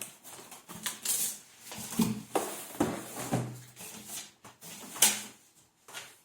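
Cardboard box and packaging being handled and opened: irregular rustling, scraping and knocks, with one sharp knock about five seconds in.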